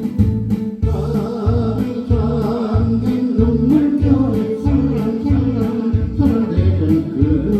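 Trot karaoke backing track playing between sung lines, with a steady bass beat about twice a second under a melody line.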